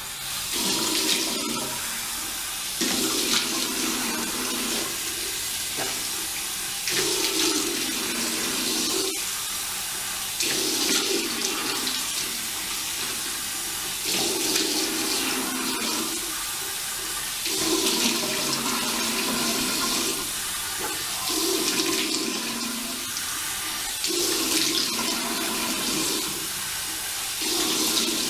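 Tap running into a sink while water is splashed onto the face over and over, swelling about every three to four seconds, as the cleanser foam is rinsed off.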